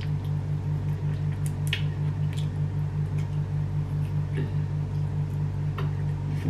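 Close-miked chewing and mouth smacking while eating with the fingers, with scattered crisp clicks and crunches. Underneath is a steady low hum that pulses several times a second.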